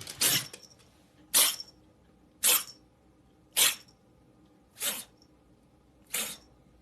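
A pet animal giving six short, sharp, sneeze-like bursts of breath, evenly spaced about one every second and a bit.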